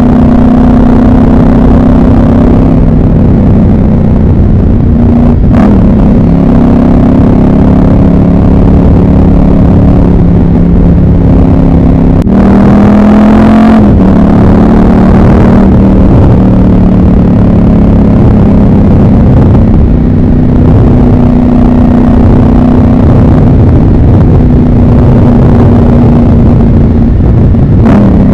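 Ducati 748's desmodromic L-twin engine running under way with a steady, loud note. The pitch dips briefly about five seconds in and again near the end, and rises into a short rev around twelve seconds in before settling.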